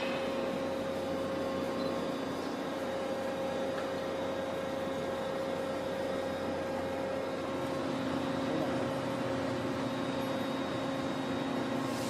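A small motor or machine running steadily, a constant hum over a hiss.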